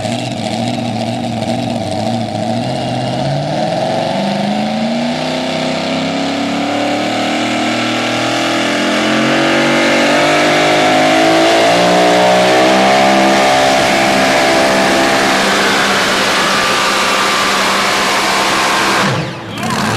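Super modified four-wheel-drive pulling truck's engine running hard under load during a pull, its pitch climbing steadily for several seconds, then easing off and dropping in the last few seconds.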